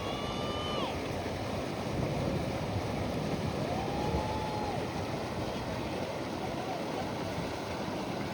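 Steady rush of river water and wind around a bamboo raft, with two brief held, high-pitched calls over it, one at the start and one about four seconds in.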